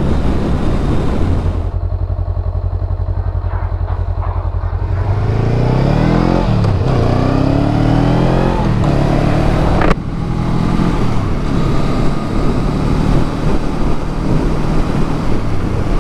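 Motorcycle engine running low and steady, then accelerating away, its pitch climbing and dropping several times through gear changes. A sharp click comes about ten seconds in, followed by steady engine and wind noise while riding.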